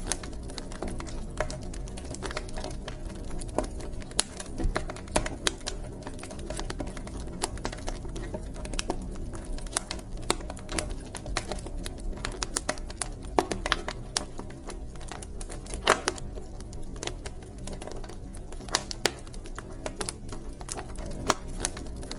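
Wood fire burning in a fireplace, crackling steadily with frequent small pops and a few sharper snaps over a low, steady rush of flame.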